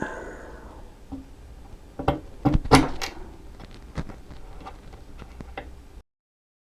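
Scattered light metallic clicks and knocks of pliers working a snap ring into the bore of a motorcycle brake master cylinder, the sharpest click about three seconds in. The sound cuts off suddenly about six seconds in.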